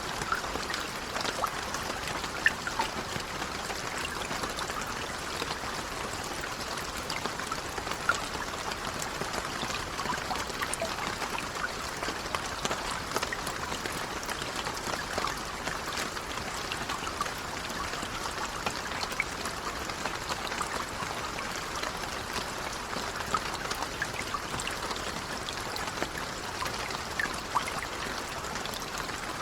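Steady, gentle rain: an even wash of falling water with scattered louder single drop hits throughout.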